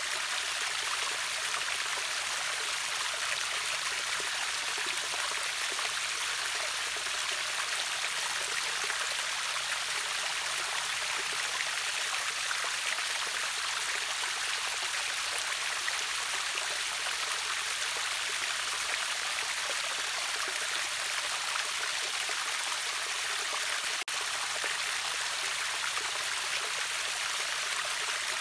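River waterfall: water rushing steadily in an even, hissy wash with little low rumble. It drops out for an instant near the end.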